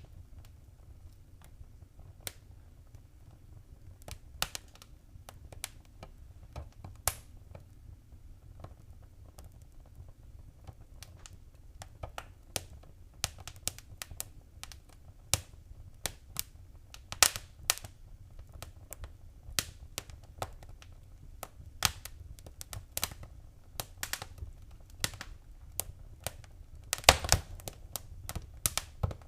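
Wood fire crackling in a fireplace: irregular sharp pops and snaps over a low rumble of burning, growing busier in the second half with a quick cluster of pops near the end.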